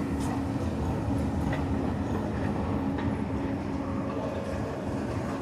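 Electric train running, a steady hum over a low rumble of wheels, with a few faint clicks.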